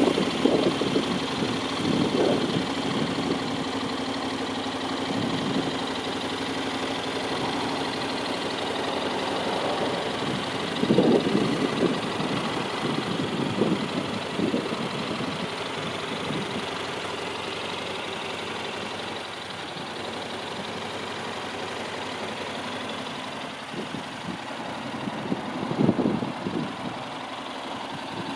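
Honda NC750X's 745 cc parallel-twin engine idling steadily, with a few short louder swells.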